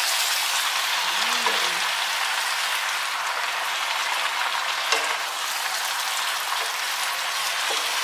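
Cabbage sizzling steadily as it is stir-fried, tossed with a plastic spatula and a wooden spatula, with a few clicks of the utensils against the pan, the clearest about five seconds in.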